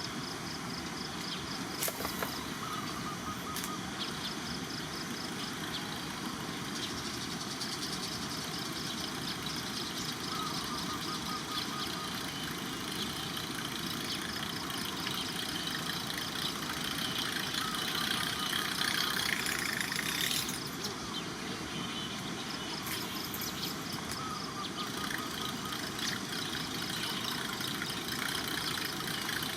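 A buzz-bait frog lure (King Frog) worked across the water surface, its blade churning and buzzing steadily as the line is reeled in, to draw a giant snakehead; the churning grows louder for a few seconds past the middle.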